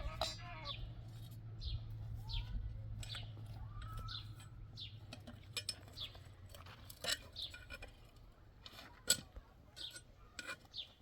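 A small bird chirping over and over, each chirp short and falling in pitch, about one a second. A few sharp clicks or knocks come through, the loudest about nine seconds in, and a low hum fades out over the first half.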